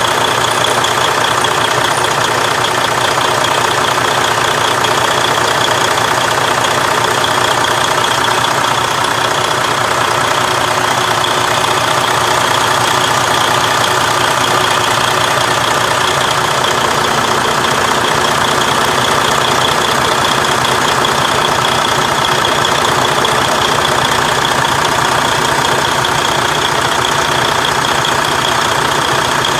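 A Freightliner truck's diesel engine idling steadily with the AC on max, as it must run while the air-conditioning system is recharged with refrigerant.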